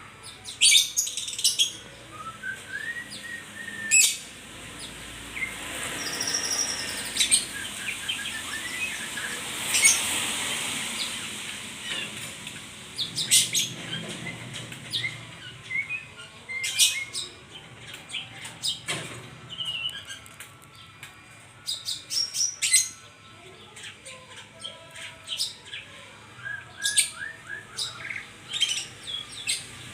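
Murai songbird (a Copsychus shama or magpie-robin) singing: a dense run of quick chirps, sharp high notes and short rising whistles, with a soft hiss behind part of it.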